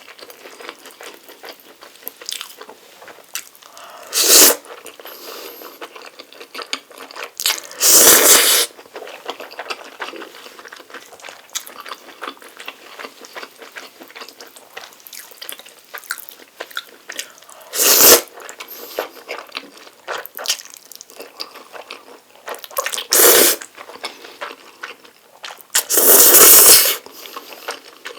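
Close-miked eating of Jjapaghetti black-bean noodles: five loud bursts of noodle slurping or biting, the longest about a second near the end, with quieter chewing and wet mouth sounds between.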